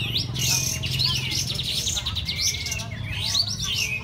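Sooty-headed bulbuls and other songbirds chirping and trilling at once, many fast overlapping calls, over a low steady hum.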